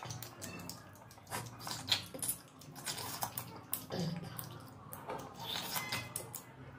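Close-up eating sounds: wet chewing and lip smacking, a string of irregular short smacks and clicks.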